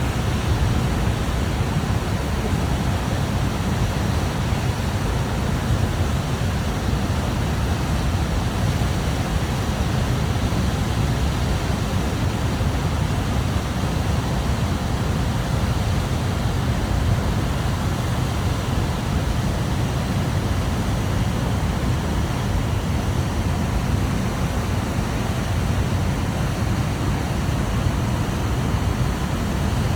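Water rushing steadily into a marina lock through its sluices, a continuous loud rush with a heavy low rumble.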